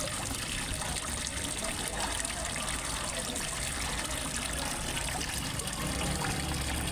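Water trickling and splashing steadily into a fish pond from a small waterfall, with a low rumble underneath.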